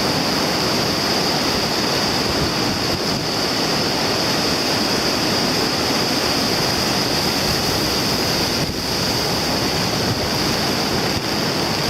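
Rough surf and strong wind buffeting the microphone in a steady rushing roar, with a constant high hiss on top; the sea and wind are stirred up by an approaching typhoon.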